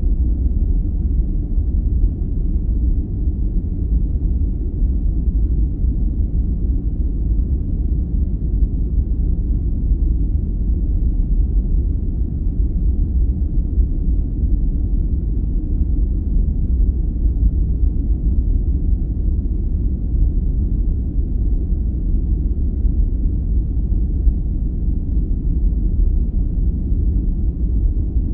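Continuous sleep-aid noise: a steady, deep rumble like brown noise, unchanging and without rhythm or separate sounds, almost all of it low in pitch with only a faint hiss on top.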